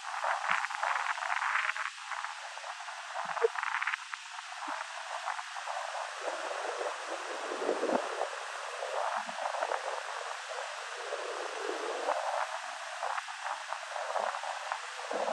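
Pacific Ocean waves washing onto a beach: a steady crackling hiss of surf that swells for a few seconds in the middle.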